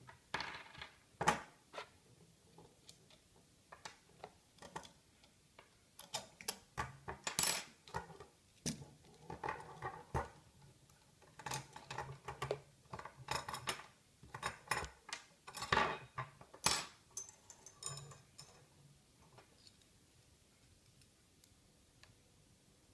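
Metal parts of a homemade fire-pit grill clinking and clanking as they are handled, a run of irregular sharp knocks with short ringing that dies away a few seconds before the end.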